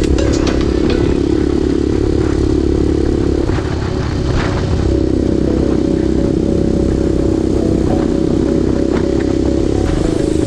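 A motor vehicle's engine running steadily, its pitch dropping out briefly about four seconds in before it picks up again, with some light rattling.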